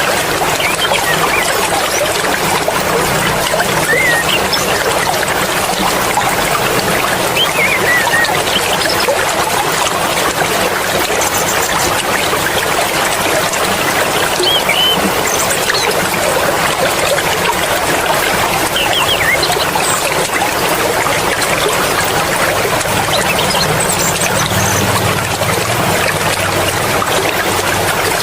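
Mountain stream flowing, a steady rush and trickle of running water, with a few brief high chirps now and then.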